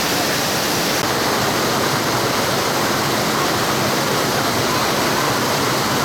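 Mountain valley stream rushing steadily: a loud, even sound of flowing water.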